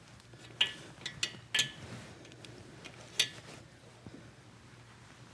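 Socket and click-type torque wrench clinking on the cylinder head nuts of an Aermacchi motorcycle engine, as the head is torqued down in stages. About five sharp metallic clicks fall in the first three and a half seconds, then it goes quiet.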